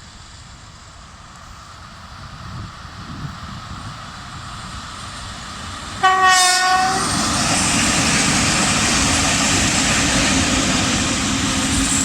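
VL80S electric locomotive hauling a freight train, its rolling noise building as it approaches. About halfway through it sounds one short horn blast of about a second, then it passes close with a loud, steady rumble of wheels on rails.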